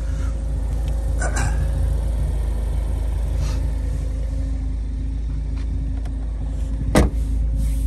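A car engine idling: a steady low rumble with a constant hum. There are a few light clicks about a second in and a single sharp knock near the end.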